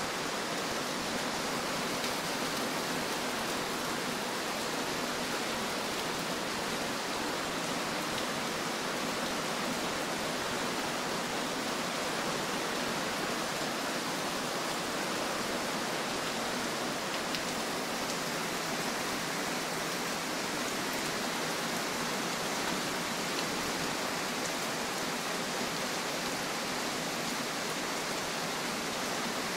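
Heavy rain pouring down onto a paved street, a steady hiss.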